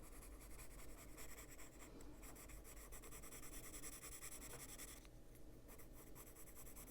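Caran d'Ache Luminance coloured pencil scratching faintly on paper in quick, short shading strokes, with a brief pause about five seconds in.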